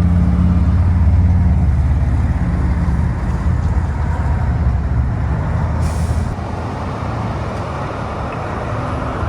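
A large road vehicle's engine running with a steady low hum that fades over the first five seconds, amid traffic noise, with a short hiss about six seconds in.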